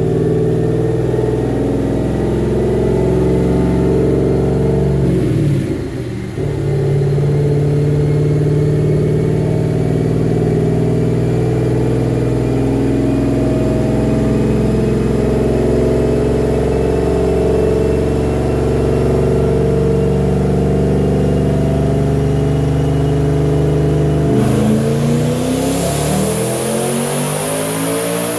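Twin-turbocharged Ford Boss 302 V8 under load on a dyno. The revs dip briefly about six seconds in, then climb slowly through a long pull. Near the end it lets off, with a sudden loud hiss and the revs falling.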